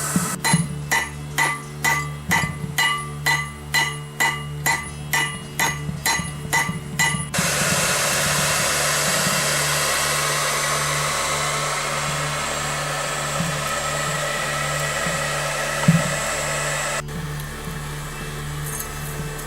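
Hand hammer striking steel on an anvil, a little over two ringing blows a second for about seven seconds, as a knife blank is forged. A steady rushing noise follows and stops abruptly near the end. A steady low hum runs underneath throughout.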